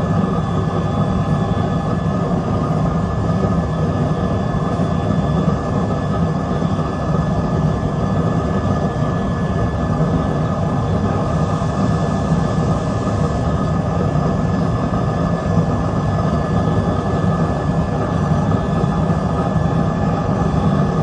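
Heating furnace running: a loud, steady rushing noise with a constant thin high whine.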